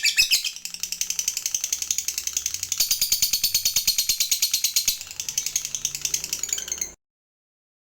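Lovebird giving its long 'ngekek' chatter: a fast, high-pitched rattling trill of about a dozen notes a second, which cuts off suddenly near the end.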